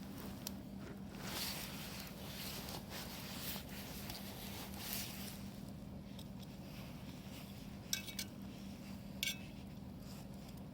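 Quiet rustling, then two short metallic clinks with a brief ring near the end, of cookware and utensils knocking together.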